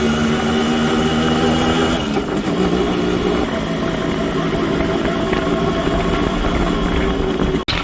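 Motorcycle engine running under way, its pitch dropping about two seconds in, over steady wind and road noise. The sound cuts out for an instant near the end.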